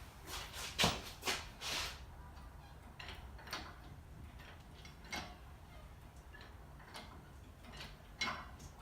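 Engine hoist being jacked up to lift a Chevrolet LSA V8 out of the car: short metallic clicks and clanks from the jack and hoist, a quick cluster in the first two seconds, then single clicks every second and a half or two.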